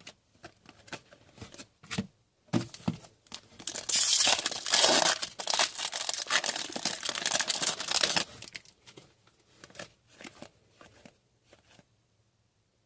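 A trading card pack wrapper being torn open and crinkled, a dense ripping and rustling for about four seconds in the middle, with light clicks and rustles of handled cards before and after.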